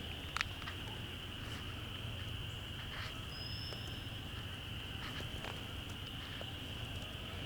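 A steady high-pitched chorus of calling frogs that never lets up, with a few sharp clicks and snaps, the loudest about half a second in, and one brief high whistle near the middle.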